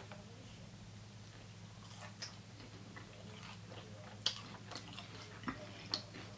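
Close-up chewing of a crispy fried chicken tender, with soft wet mouth sounds and a few sharp crackles, the loudest about four seconds in.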